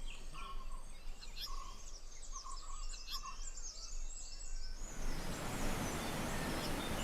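Several forest birds chirping and calling in quick, short notes. About five seconds in, this gives way to a steady rush of water from a stream running full with monsoon rain.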